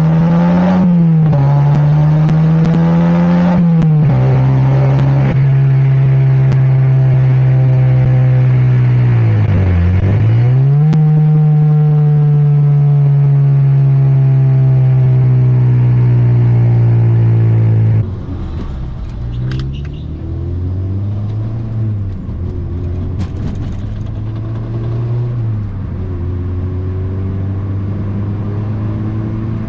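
Mazda MX-5 NC's 2.0-litre four-cylinder engine driving through a modified exhaust, loud and steady, its note climbing and dropping back as it changes gear, with a sharp dip in revs about ten seconds in. About halfway through it turns abruptly quieter and keeps running, rising and falling with further gear changes.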